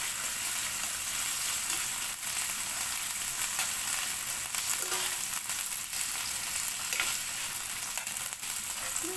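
Sliced chicken gizzards sizzling with garlic and onion in hot oil in a nonstick frying pan while being stirred with a spatula. The hiss is steady, with a few faint brief scrapes of the spatula.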